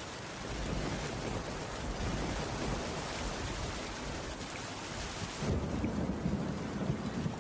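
Steady rain with a low thunder rumble beneath it. About five and a half seconds in, the rumble swells and the rain's hiss dims.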